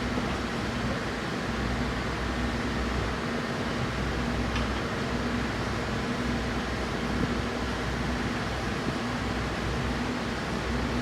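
Steady machine hum with a low drone and a faint, evenly pulsing tone.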